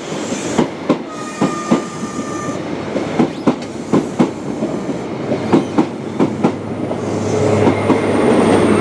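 High Speed Train departing, its coach wheels clicking over rail joints in regular pairs as each bogie passes. Near the end the rear class 43 power car's diesel engine drone and a high whine grow louder as it comes by.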